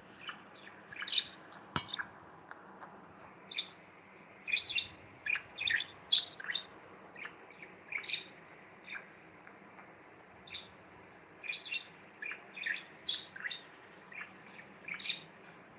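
Budgerigar chirping in short, high, irregular calls, clustered several at a time, with one sharp click about two seconds in.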